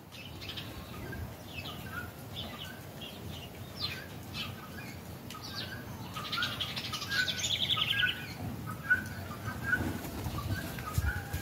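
Birds chirping and calling, with a fast trill of rapidly repeated notes from about six to eight seconds in, over a low rustle.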